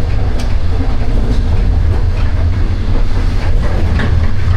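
Slow Chinese 'green train' sleeper running on the rails: a loud, steady low rumble of the carriage with scattered clicks and knocks.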